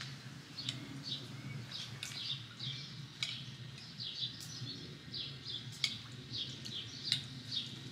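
Small birds chirping, short high chirps two or three times a second, over a low steady hum, with a few sharp clicks.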